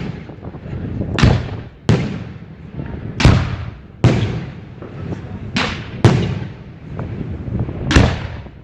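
New Year's fireworks going off: a run of about seven loud bangs, one every second or so, each followed by a trailing echo and crackle.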